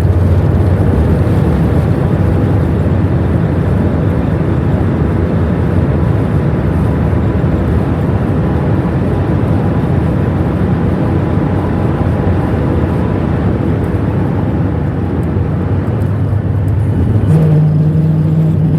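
Steady roar of a Boeing 737 MAX 8's engines and rushing air, heard from inside the passenger cabin during the landing. About 17 seconds in a low steady hum comes in over it and rises slightly in pitch at the end.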